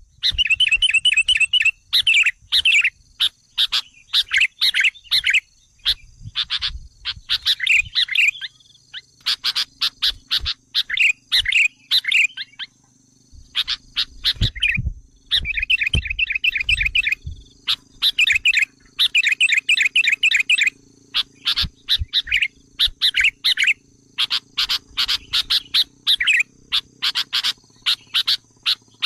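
Sooty-headed bulbuls calling in agitated, rapid bouts of chattering chirps, one bout after another with short pauses: the bulbul lure call used to draw in wild birds.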